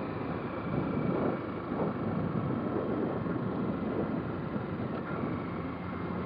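Motorcycle riding along: wind buffeting the microphone over steady engine and road noise.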